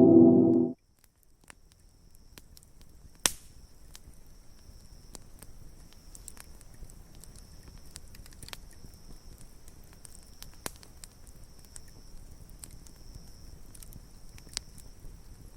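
Wood campfire crackling, with scattered sharp pops, the loudest about three seconds in, over a steady high-pitched tone. A gong-like chime cuts off within the first second.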